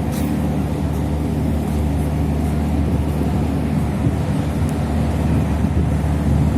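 Large ferry's diesel engines running, a steady low drone with a layered hum.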